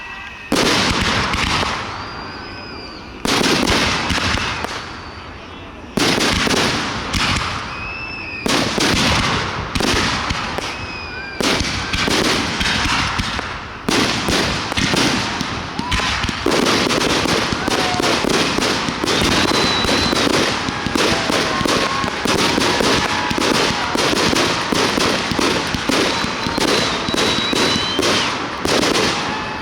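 Fireworks display: loud shell bursts a few seconds apart, then from about halfway a rapid, continuous barrage of overlapping bangs.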